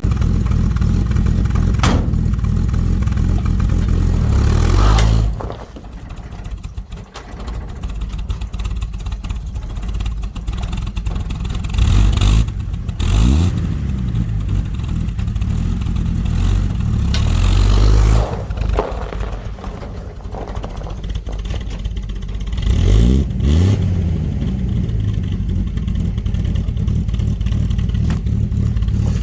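Dodge D100's slant-six engine working under load as the truck is driven out of ice around its tyres. It revs up and eases off in several surges, with a quieter spell about five seconds in.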